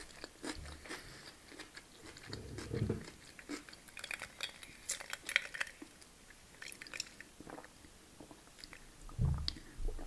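A person chewing and biting food close to the microphone, with scattered crunchy crackles and soft mouth sounds.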